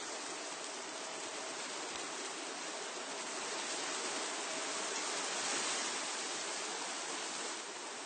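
Wind blowing through the leaves of trees, a steady rushing rustle of foliage that swells to a stronger gust in the middle and eases off near the end.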